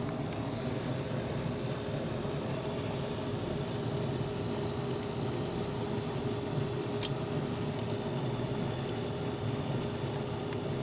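Steady mechanical hum of nearby running machinery with one held tone, and a couple of faint clicks about seven and eight seconds in.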